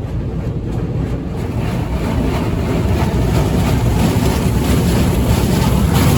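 High-pressure water jets from a Petit AccuTrac 360 touchless wash unit blasting against the car, heard from inside the cabin as a loud, dense hiss and drumming that grows louder.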